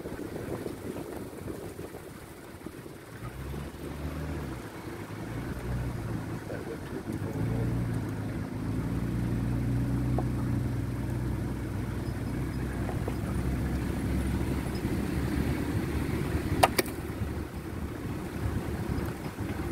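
Vehicle engine running steadily at low speed while driving slowly along a sandy dirt track. The hum sets in a few seconds in and grows a little louder. One sharp click comes near the end.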